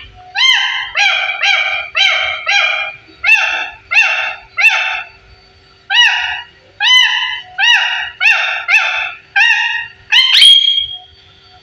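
Parrot calling: about fifteen short, rising-and-falling calls in three quick bursts, ending a little over ten seconds in with a louder rising call that holds a high note for about half a second.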